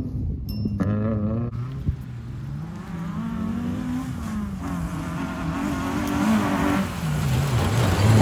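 Rallycross car engine revving through a corner: the pitch falls and climbs several times as the throttle is lifted and reapplied, briefly cutting out early on and growing louder near the end.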